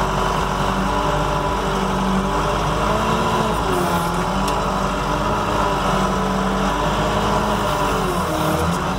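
A vehicle engine running steadily, its pitch rising and falling slightly as the engine speed shifts a little.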